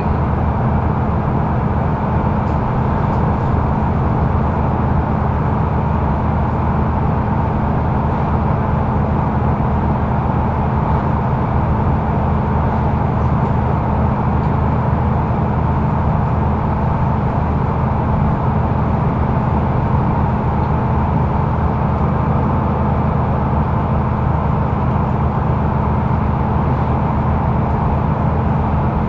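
Mercedes-Benz O530 Citaro facelift intercity bus heard from inside the passenger cabin: engine drone and road noise, running steadily at an even engine speed with no gear changes or speed changes.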